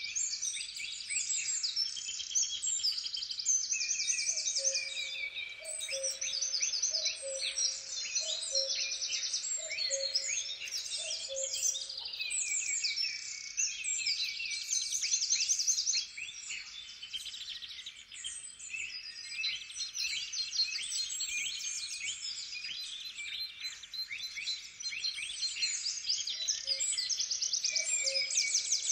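Dense chorus of many songbirds singing and trilling at once, with a lower two-note call repeated about once a second in two runs, the first near the start and the second near the end.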